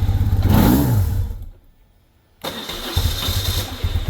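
Carbureted BMW motorcycle engine running with an even beat, revved briefly, then dying away to near quiet. About half a second later it is cranked and catches again, settling back into an even idle. This is a cold carbureted engine that stalls before it has warmed up.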